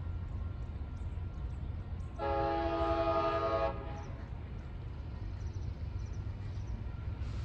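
Locomotive air horn sounding one blast of about a second and a half, over a steady low rumble.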